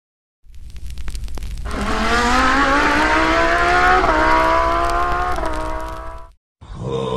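Car engine sound effect: a crackle, then the engine accelerating, its pitch rising steadily with two brief dips like gear changes, over a low rumble, cutting off suddenly near the end.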